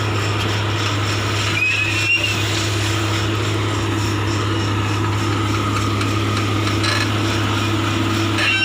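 Komatsu PC200 excavator's diesel engine running steadily with a low, even hum. A brief high squeal and a knock about two seconds in.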